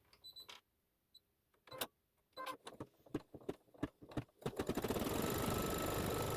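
A few scattered clicks and taps, then about four and a half seconds in an embroidery machine starts up, its needle strokes quickly speeding into a steady stitching run as it sews down the fabric.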